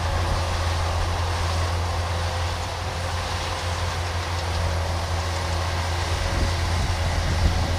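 Rice combine harvester running steadily in the field: a constant low engine hum under the even rush of its machinery.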